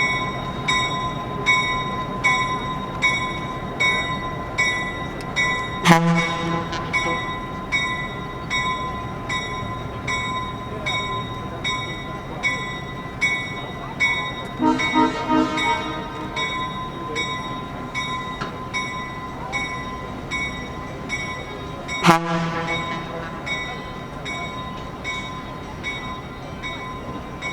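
A railroad bell ringing steadily, a little under twice a second, during a train movement in a rail yard. Two sharp metallic bangs come about six seconds in and again about twenty-two seconds in, with a short horn sound about halfway.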